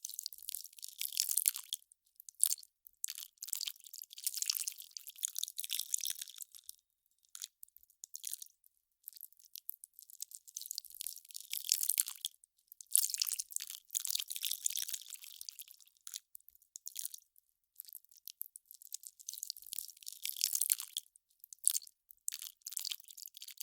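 Melting ice crackling: dense, irregular high-pitched crackles that come in clusters a few seconds long, with short quiet gaps between them.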